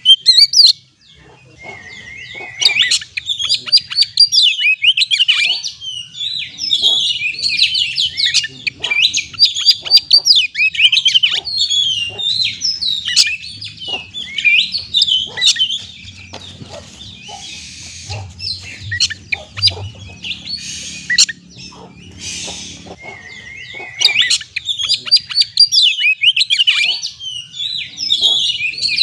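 Oriental magpie-robin singing a fast, varied song of high chirps and whistles, with a few harsh rasping notes in the middle.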